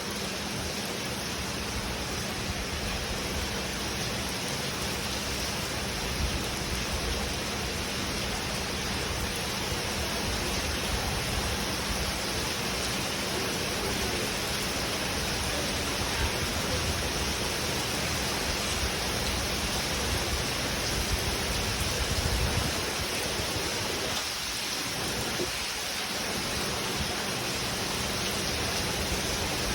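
Steady rain: an even, unbroken hiss with a low rumble underneath that briefly drops away about three-quarters of the way through.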